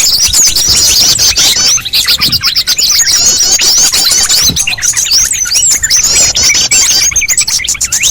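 Dense chorus of small songbirds chirping and twittering, many quick overlapping calls with no pauses: a small-bird lure recording (pikat burcil) of the kind played to draw small birds in.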